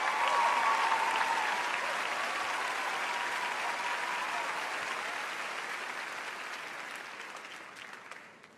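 Audience applauding, the applause slowly fading over the last few seconds, with a few last claps just before it dies away.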